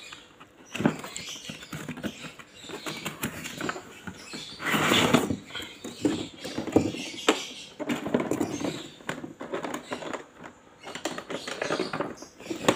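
Handling noises of a cordless drill set being unpacked: rustling, scraping and irregular clicks of packaging and plastic parts, with one louder rustle about five seconds in.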